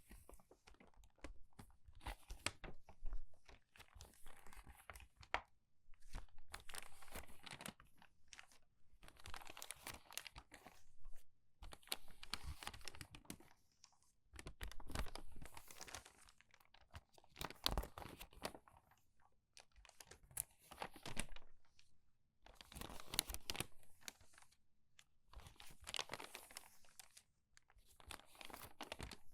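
Crumpled, crinkled paper pages being turned quickly by hand, each turn a short burst of crackling, about one every two to three seconds.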